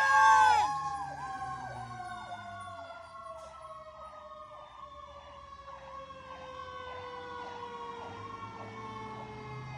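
Fire engine sirens passing: loud at first, then dropping away about a second in and carrying on more faintly. One tone slowly falls in pitch while another sweeps quickly up and down, two or three times a second.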